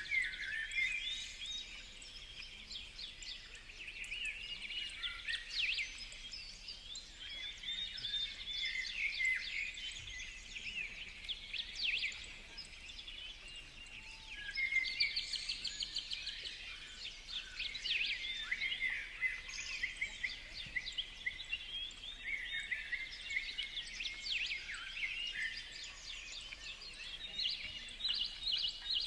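A chorus of small birds chirping and calling, many short high chirps and quick whistled sweeps overlapping without a break.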